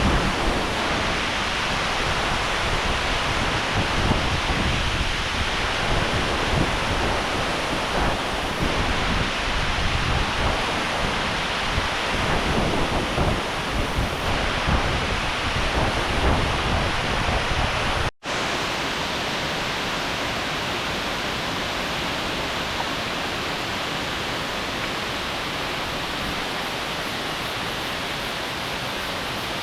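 Steady rush of water falling and running over rocks, from a waterfall and stream. About 18 seconds in it cuts out for an instant, then carries on smoother and with less low rumble.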